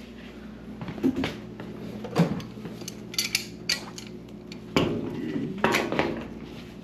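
Metal tools and plumbing fittings being handled and set down: a run of irregular clinks and knocks, a few of them higher and brighter, over a steady low hum.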